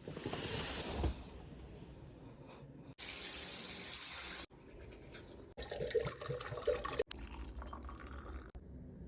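Running water in a string of short, abruptly cut clips, with the steadiest and loudest hiss between about three and four and a half seconds in.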